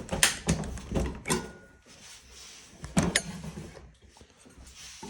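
Sheet-metal and plastic cabinet panels of a Kenmore electric dryer being worked loose by hand: a few sharp clacks with scraping between, the first about a quarter second in, another about a second later and a pair around three seconds in.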